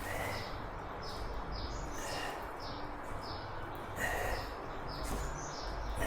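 Small bird chirping over and over, short falling notes about two a second, over a steady background hiss.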